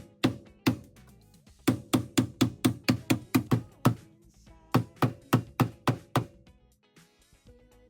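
A run of loud hammer blows on the car's metal body while it is held under tension on a frame machine, several blows a second in bursts, each with a short metallic ring; the blows stop about six seconds in. Background music plays underneath.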